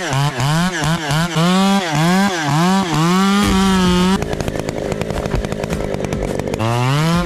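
Two-stroke chainsaw with its throttle blipped about eight times in quick succession, then held at full revs. A rough, noisy stretch of a couple of seconds follows as the chain cuts into wood, and the saw revs up again near the end.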